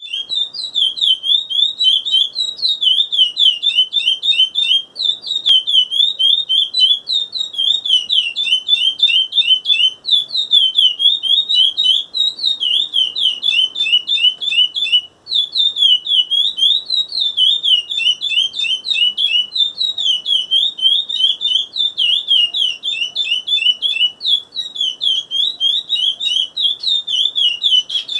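Seven-month-old chestnut-bellied seed finch (curió) singing: a rapid, almost unbroken run of high twittering notes, with brief gaps about five, ten and fifteen seconds in.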